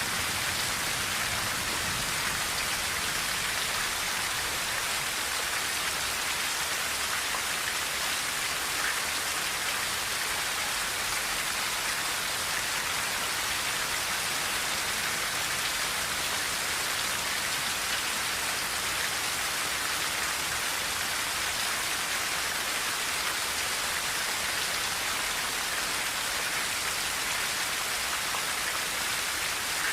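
Steady rain falling on a tin roof, an even, unbroken hiss of drops.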